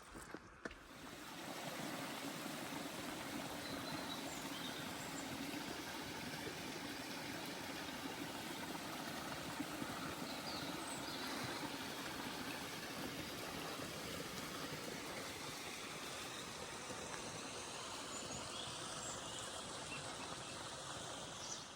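A mountain stream rushing steadily, setting in about a second in and cutting off just before the end.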